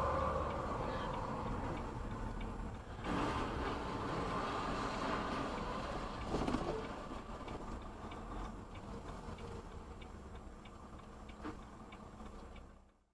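Car cabin and road rumble from a moving car, with a faint regular ticking about twice a second in the second half. The sound fades out just before the end.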